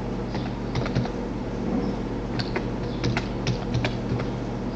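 Computer keyboard typing: irregular runs of key clicks as text is entered, over a steady low hum.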